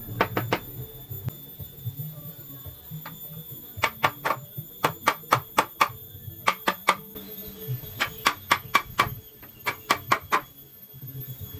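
Hammer striking wood in quick runs of sharp knocks, about five a second, with short pauses between the runs.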